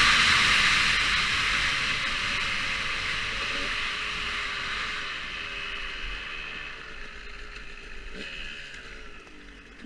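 Motocross bike engine running with a wavering pitch and fading steadily as it moves away, together with a loud hiss that dies down with it.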